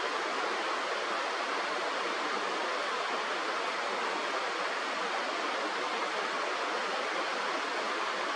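Steady rushing of a river or stream, an even hiss with no breaks.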